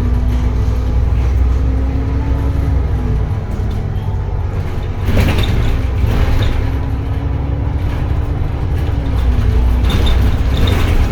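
Edison Motors Smart 110G low-floor city bus driving, its GX12P CNG engine and drivetrain giving a steady low rumble with a faint whine that rises slowly in pitch twice. Brief rattling noise comes about five seconds in and again near the end.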